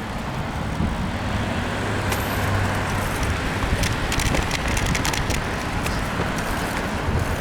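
Road traffic heard from a moving bicycle, with wind rumbling on the microphone. A passing vehicle's engine hums low from about one to three seconds in, and a few faint clicks come and go.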